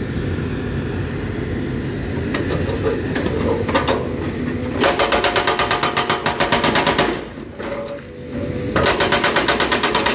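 Excavator-mounted hydraulic breaker hammering on hard rock over the excavator's running engine. The breaker starts rapid, even blows about five seconds in, stops for about a second and a half, then starts again near the end.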